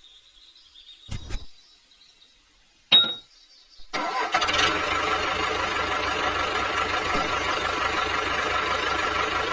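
A couple of short knocks, then an engine starting about four seconds in and running steadily.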